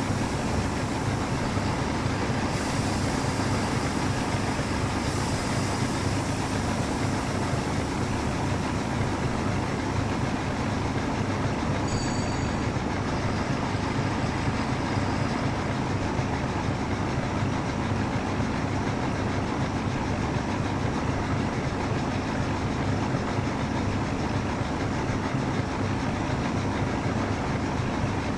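Train running on rails with a steady, unbroken rumble and a low hum, and a brief high wheel squeal about halfway through.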